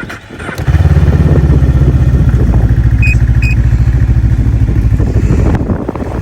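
Snowmobile engine running loudly and steadily, coming in abruptly under a second in and dropping away near the end. Two short high beeps sound about halfway through.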